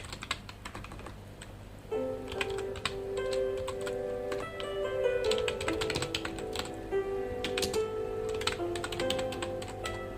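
Typing on a computer keyboard: quick, irregular runs of key clicks. Soft background music plays underneath, coming back in about two seconds in.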